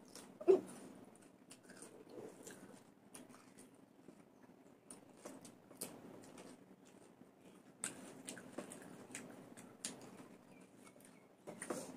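Quiet chewing and mouth sounds of people eating by hand, with small clicks and smacks scattered throughout and one sharper click about half a second in.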